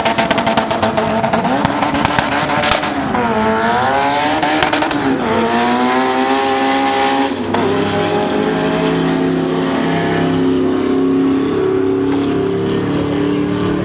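Race car engine run hard under acceleration. The engine note holds steady, dips and recovers about three to five seconds in, then climbs steadily. It drops at a gear shift about seven and a half seconds in and climbs again.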